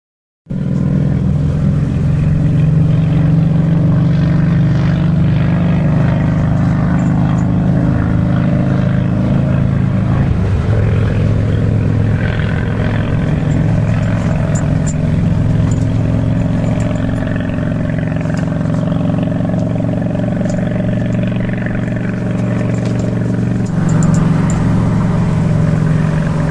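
An engine running steadily, getting a little louder about 24 seconds in.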